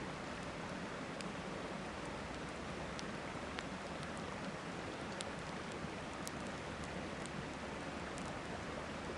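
River water rushing steadily, with the sharp crackles and pops of a wood campfire scattered over it every second or so.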